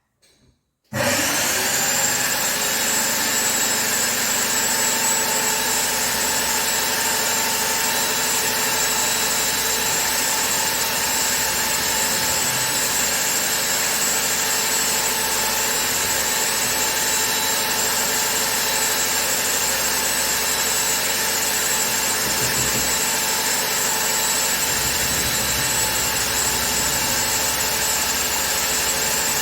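A powered machine starts about a second in and runs loud and steady, a constant whine over a broad hiss with no change in speed.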